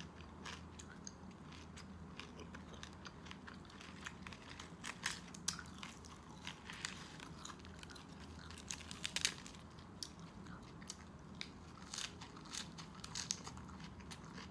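Close-miked eating: wet chewing and crisp crunches of baked pork and fresh lettuce leaves, with irregular mouth clicks that come thicker about five, nine and twelve seconds in.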